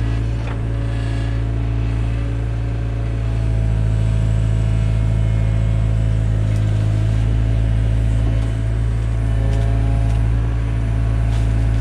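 Takeuchi TB175 excavator's diesel engine running steadily while working, its note dipping and rising slightly, with a few faint clicks.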